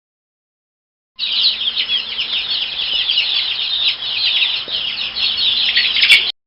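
A flock of chicks peeping all at once: a dense chatter of short, high, falling chirps. It starts about a second in and cuts off abruptly near the end.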